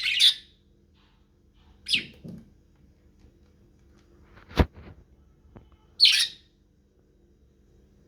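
Pet budgerigars giving a few short, high chirps a couple of seconds apart, with a single sharp click about halfway through.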